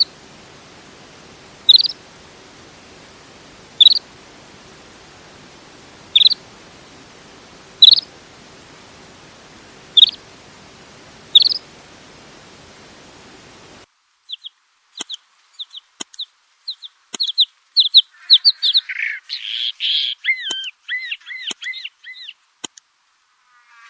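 A bird gives one short rising chirp about every two seconds over a steady hiss. About fourteen seconds in, the sound cuts to a different recording of rapid, varied twittering chirps with a few sharp clicks.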